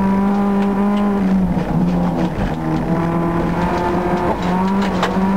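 Honda Civic's engine working hard at high revs, heard from inside the cabin. Its note steps down about a second and a half in and climbs back up a little after four seconds, with a few sharp clicks, the loudest near the end.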